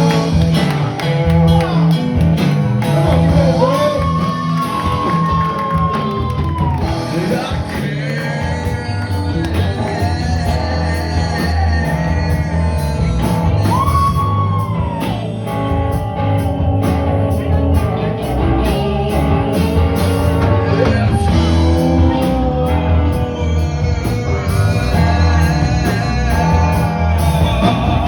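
Live rock band playing, electric guitar and drum kit under a singer who holds long notes twice, about four seconds in and again halfway through.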